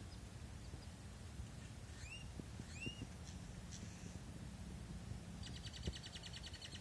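Faint room noise with a low hum, over which a bird gives a few short chirps about two seconds in, then a fast trill near the end.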